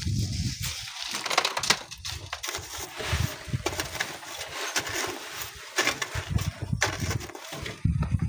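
Irregular crunching and scraping of sand and stones, a dense run of small knocks and scrapes.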